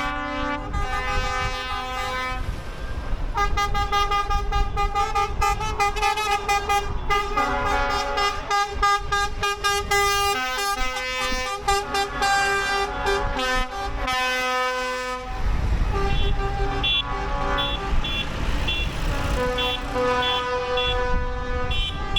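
Horns on passing procession trucks and tractors tooting again and again in changing pitches, over engine noise. A deeper engine rumble comes in about fifteen seconds in as a heavy vehicle passes.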